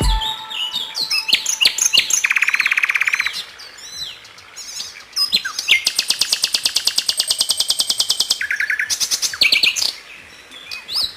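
Bird song: a string of varied quick chirps and whistled notes sliding in pitch, with a short rapid trill about two seconds in and a longer rapid trill from about five to eight seconds.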